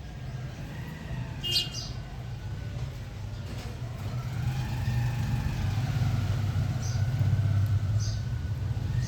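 A motor vehicle passing close by: a low engine-and-road rumble that builds about halfway through and stays loud. A few short, high bird chirps sound over it, the clearest about a second and a half in, then two more near the end.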